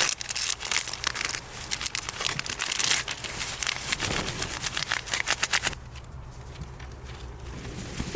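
Dense crinkling and crackling that stops abruptly about six seconds in, leaving a steady low rumble.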